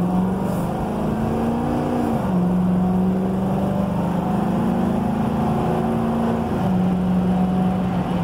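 Car engine heard from inside the cabin while accelerating. Its note climbs steadily, drops suddenly as the transmission shifts up a gear about two seconds in, climbs again, and drops with another upshift near the end.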